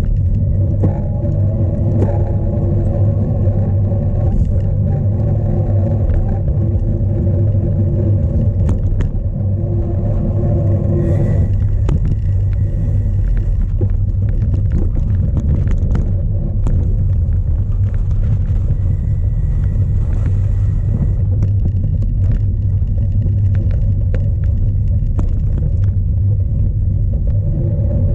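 Strong wind buffeting the bike-mounted camera's microphone, a steady low rumble, with scattered clicks and rattles from the cyclocross bike riding over rough ground.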